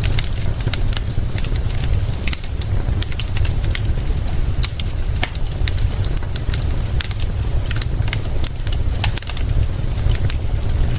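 Wood fire crackling with frequent sharp snaps and pops, over a steady hiss of rain and a constant low rumble.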